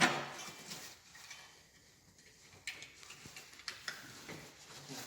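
Clasps on a fabric boat camouflage cover being fastened by hand: a sharp click at the very start, then a few lighter clicks and knocks from the middle onward.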